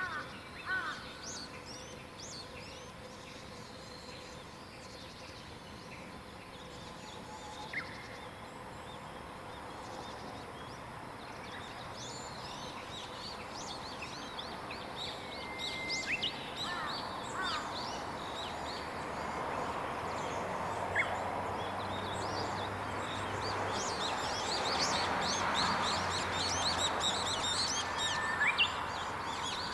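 Wild songbirds chirping and singing, many short high calls and whistles overlapping. Under them a steady rushing noise swells and grows louder through the second half.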